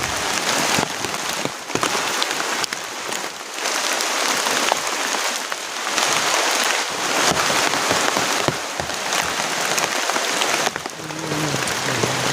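Rain pouring down onto a surface: a dense steady hiss with scattered sharp drop ticks. Its level swells and eases every few seconds.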